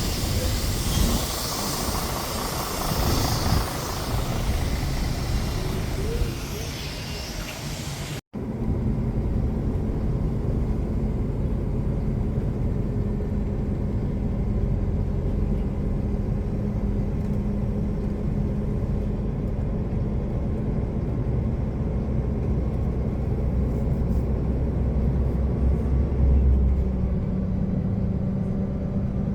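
Truck cab on the road: the diesel engine and road noise, hissy and loud in the upper range for the first eight seconds. After a brief dropout about eight seconds in, a steady low engine drone with a hum.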